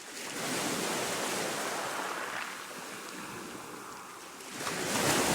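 Ocean waves breaking and washing on a shore, one wave surging in about half a second in and a bigger one building near the end.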